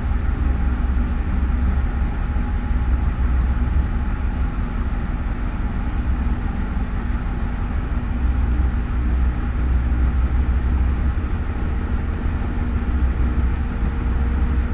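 Washing machine running with a steady low rumble and hum.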